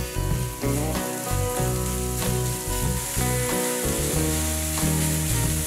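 Minced pork and chopped scallions sizzling as they fry in a nonstick pan, stirred and broken up with a silicone spatula, over background music.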